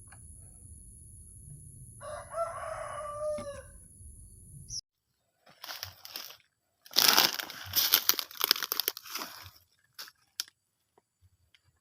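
A rooster crows once about two seconds in, over a steady background hum. After an abrupt cut, loud bursts of crackling, rustling noise follow for several seconds.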